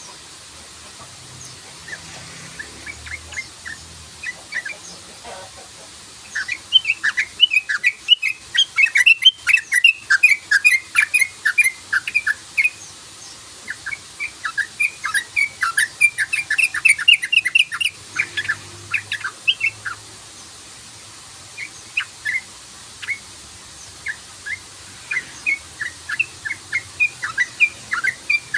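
Yellow-vented bulbul (trucukan) calling in rapid 'cruk-cruk-cruk' runs of short, quick notes. The runs come in several bouts separated by brief pauses, the loudest in the first half.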